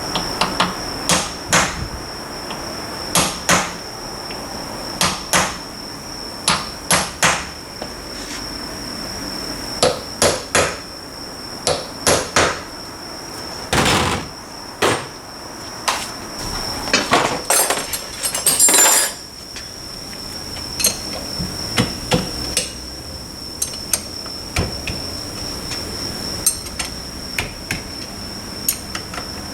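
Hammer striking a centre punch to make punch marks on the differential bearing caps, marking which side each cap goes back on: sharp metal taps, singly and in pairs or small groups, with a quick flurry of lighter clinks a little past the middle.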